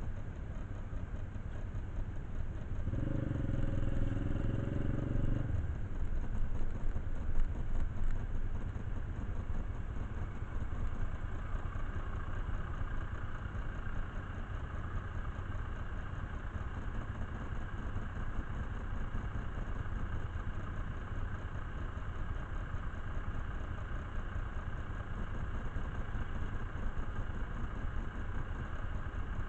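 Motorcycle engine running steadily at idle, with a brief steady tone about three seconds in that lasts about two seconds.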